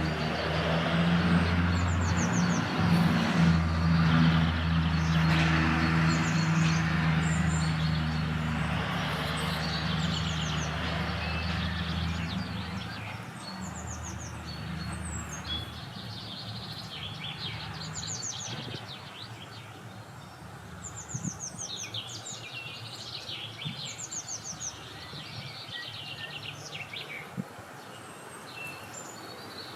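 Small birds chirping and singing short repeated trills outdoors. A low steady engine drone, such as a passing vehicle, runs under them for the first half and fades away by about the middle.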